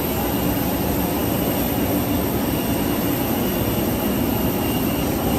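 Steady engine noise of a passenger jet, heard from inside the cabin: an even, unbroken hum heaviest in the low end.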